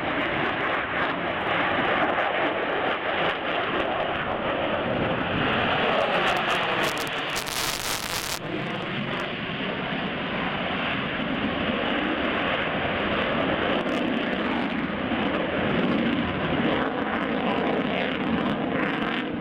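Airplane flying past, its engine noise steady and loud, with a sweeping, phasing change in tone around the middle as it passes.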